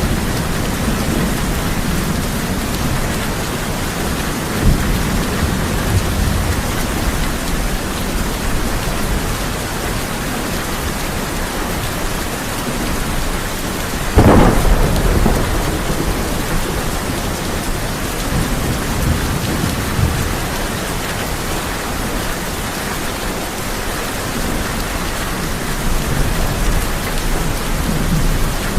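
Heavy rain falling steadily on a tin roof, with low rolling thunder. A short thunder crack comes about five seconds in, and a loud, sharp thunderclap comes about halfway through, followed by rumbling.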